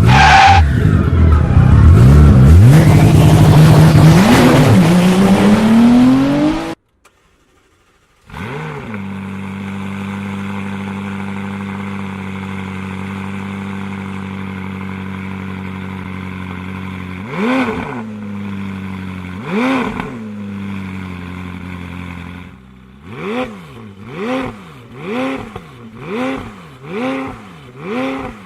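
McLaren 570S twin-turbo V8 through a Boost Logic titanium exhaust: a loud stretch of hard revving that cuts off suddenly, then the engine starts and idles steadily. It is blipped twice, the idle settles lower, then it takes a run of about seven quick throttle blips.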